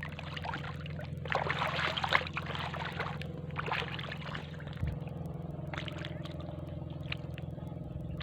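Small boat engine running steadily at a low drone, with water splashing and sloshing against the hull, loudest from about one to three seconds in.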